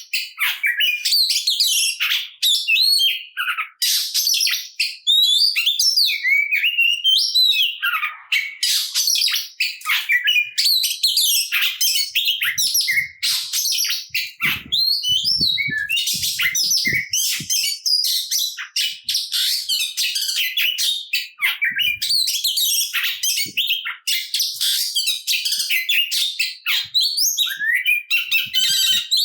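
Oriental magpie-robin (kacer) in full song: a rapid, near-unbroken stream of varied high chirps, whistles and gliding notes. The song is packed with mimicked phrases (isian), the combative singing of a bird fighting to outsing rivals.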